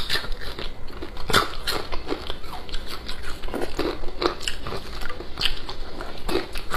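A person chewing a mouthful of noodles close to a clip-on microphone: irregular wet smacks, clicks and small crunches.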